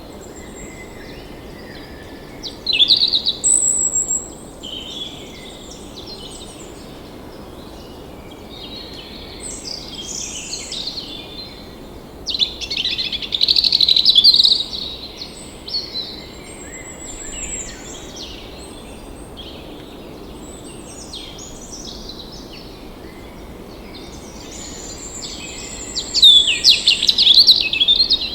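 Songbirds chirping and singing in repeated bursts of quick trills and whistles over a steady background hiss. The song is loudest about three seconds in, in the middle, and again near the end.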